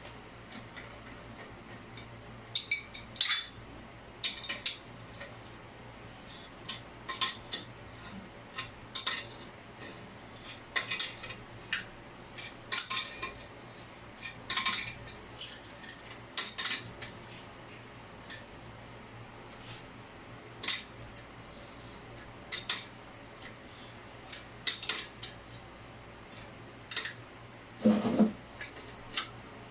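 Irregular sharp metallic clinks and taps from plumbing tools and fittings being handled, with a heavier knock near the end.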